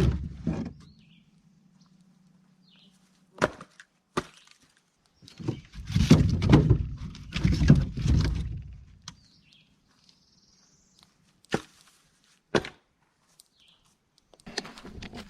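Wood being handled, likely for a campfire: a few sharp knocks and cracks of sticks, and a longer stretch of rustling and crunching about six seconds in.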